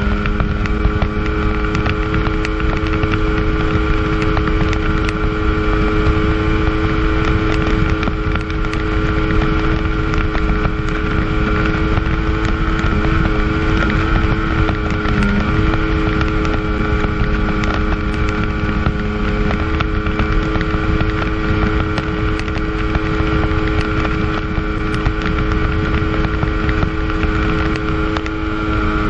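1997 Sea-Doo GTS jet ski's 720 two-stroke engine running at steady high rpm on a fast flat-water run, with wind rushing over the microphone. The engine pitch dips briefly near the start and again about halfway through.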